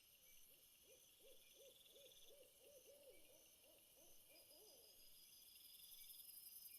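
Faint series of about a dozen soft hooting notes from a bird, coming a little faster toward the end, over a high thin chirring of insects that grows louder near the end.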